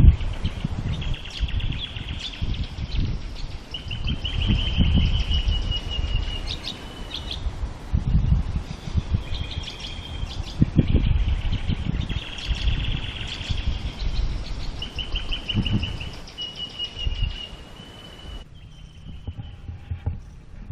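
Small birds singing: repeated chirps and fast trills, some held as long trills, over a low, uneven rumble. The birdsong stops near the end.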